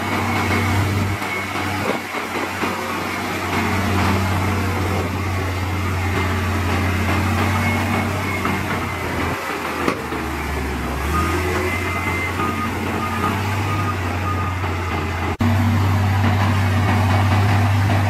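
Heavy diesel engines of earthmoving machines running with a steady low drone. About eleven seconds in come faint, evenly repeated short beeps. The engine sound changes abruptly about fifteen seconds in.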